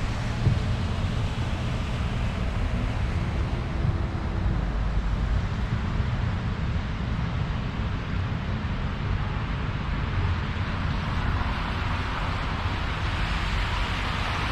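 A car driving on a snow-covered road: steady low road rumble with tyre hiss, the hiss growing louder near the end.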